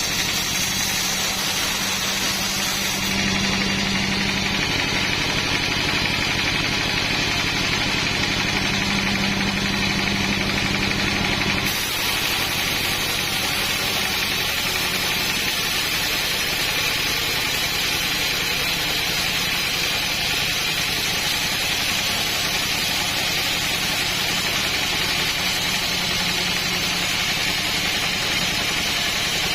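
An engine running steadily, with an abrupt change in its sound about twelve seconds in.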